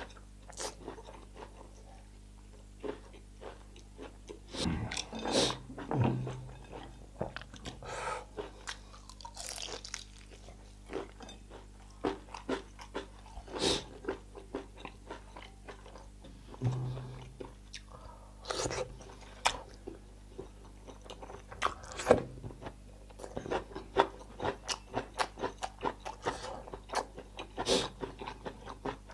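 A man chewing food close to the microphone, mukbang-style: irregular mouth smacks and crunchy bites.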